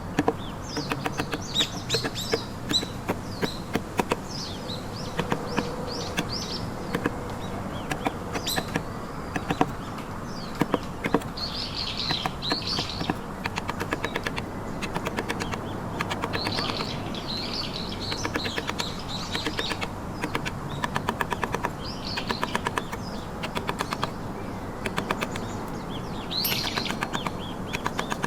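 Runs of quick, sharp taps, such as a carving chisel struck into wood, with birds chirping repeatedly over them.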